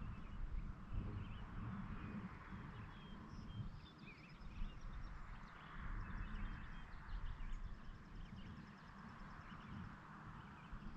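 Quiet rural evening ambience: a low, uneven rumble under a soft hiss, with faint, scattered high chirps of small birds.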